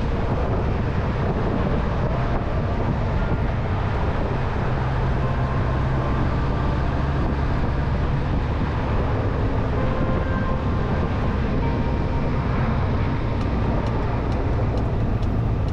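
Motorcycle running at steady cruising speed, its engine rumble mixed with wind and road noise.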